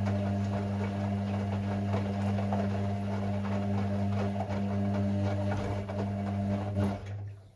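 Hoover Six Sportswear 1300 (AI130) washing machine running mid-cycle on Speed Wash, a steady hum with light rattling, which cuts off suddenly about seven seconds in.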